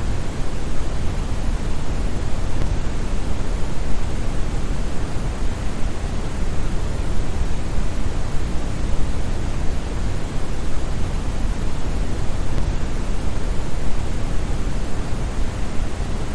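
Synthetic brown noise: a steady, deep rushing hiss, strongest in the bass and thinning toward the high end, like a distant large waterfall.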